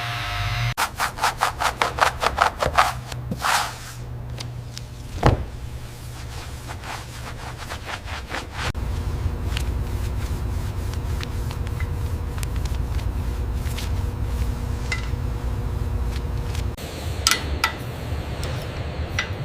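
Quick back-and-forth sanding or rubbing strokes, about six a second, then a single knock, then a steady low machine hum, with a few metallic clinks near the end.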